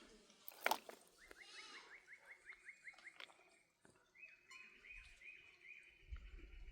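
A bird singing: two runs of quick, repeated chirps, about five a second, the second run higher-pitched. A sharp click comes just before the first run.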